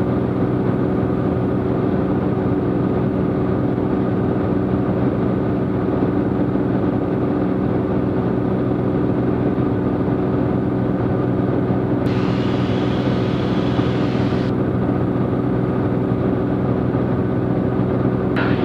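Cessna T210's turbocharged six-cylinder piston engine and propeller droning steadily in cruise-climb, with several steady tones. A brief hiss joins it for about two seconds near two thirds of the way through.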